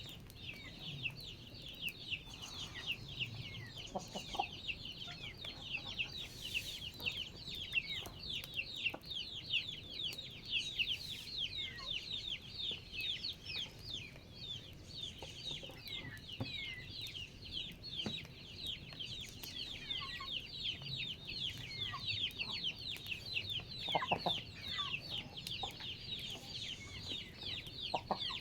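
Chickens clucking now and then, over a continuous chorus of many quick, high, falling chirps from a flock of small birds or chicks.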